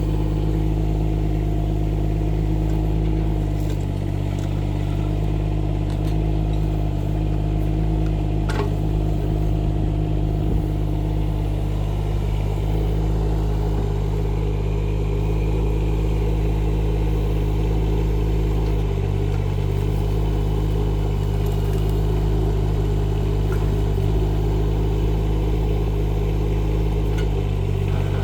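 Rippa R15 mini excavator's engine running steadily under digging work, with a few faint clicks.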